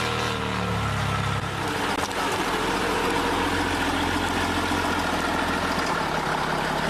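Diesel truck engine running, its low note changing about a second and a half in.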